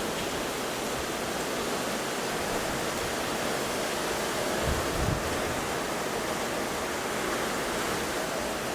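Heavy rain pouring down, a dense steady hiss, with a brief low thump about five seconds in.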